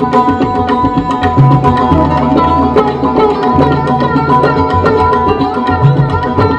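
Indian instrumental background music: quick tabla drumming with deep bass-drum strokes, over a steady held drone.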